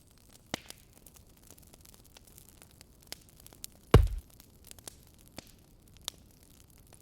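Wood fire crackling faintly, with sparse sharp pops and snaps. About four seconds in there is a single dull, heavy thud, by far the loudest sound.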